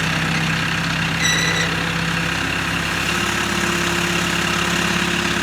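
A heavy engine idling steadily, with a brief high-pitched tone about a second in.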